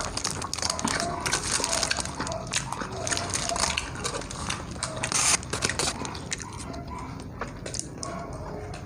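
Close-up eating sounds: chewing and wet lip-smacking, with irregular small clicks and crunches.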